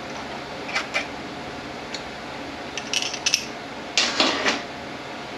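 Metal tools and small transmission parts clinking and clanking as they are handled and set down: a few scattered clinks, then a louder cluster of clanks near the end.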